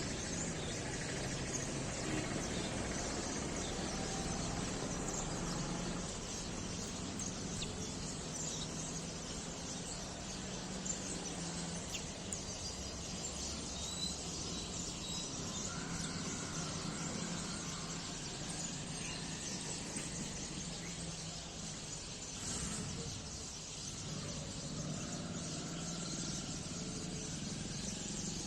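Sparrows giving occasional faint chirps over a steady background of outdoor noise with a low hum.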